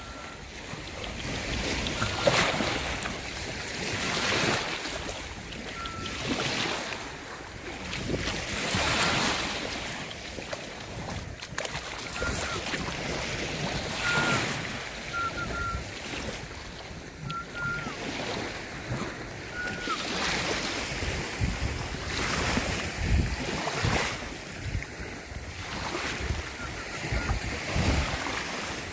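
Sea waves washing in every couple of seconds, with wind buffeting the microphone. Short high chirps recur throughout.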